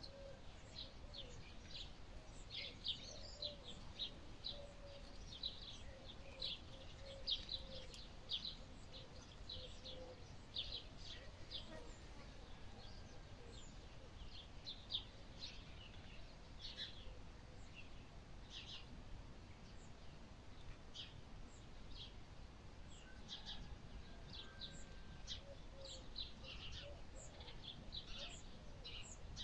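Birds chirping outdoors: many short, high chirps in quick runs throughout, over a steady low rumble of wind or ambient noise.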